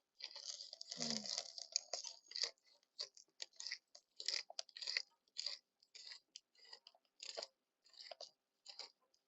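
Salt mill being twisted by hand, grinding salt in a quick irregular run of crunches, densest in the first couple of seconds. The salt's grain size does not suit the mill.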